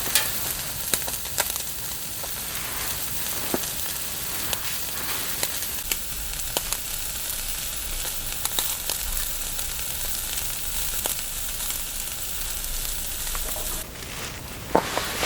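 Steady sizzling with scattered pops and spits, like food frying in a hot pan; the sizzle drops away about 14 seconds in.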